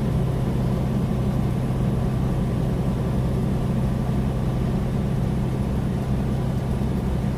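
Loaded semi truck's diesel engine and tyre/road noise droning steadily inside the cab at highway speed, with no rattles or clicks.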